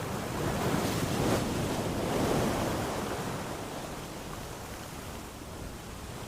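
Ocean waves breaking and washing up a beach, one surge of surf swelling over the first couple of seconds and then draining away.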